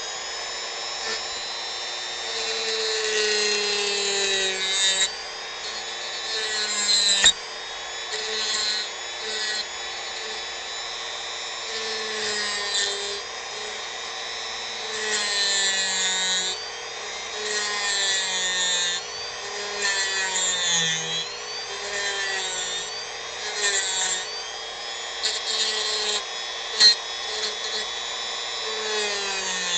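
Dremel rotary tool running at high speed and carving wood: a steady whine that dips and recovers again and again as the bit bites in, with gritty grinding rasps as it cuts. Two sharp ticks stand out, about seven seconds in and near the end.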